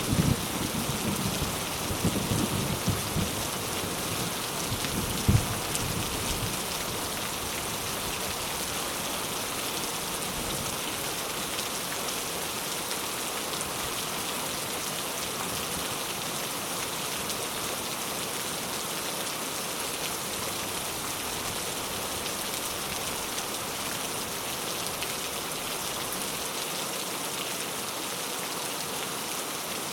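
Steady rain falling and pattering on surfaces. A low rumble fades out over the first six seconds or so, with one brief louder jolt a little after five seconds.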